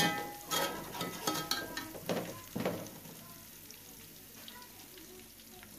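Sliced onions and red chilli frying in oil in a metal pot, stirred with a metal slotted spoon: a few scrapes and knocks of the spoon against the pot in the first couple of seconds, then a faint steady sizzle.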